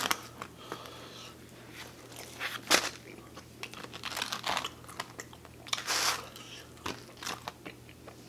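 Close-miked chewing of pepperoni pizza, with scattered crunchy crackles. The loudest crackles come about three, four and a half and six seconds in.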